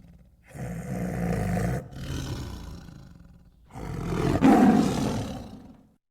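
Tiger roaring twice, the second roar louder than the first.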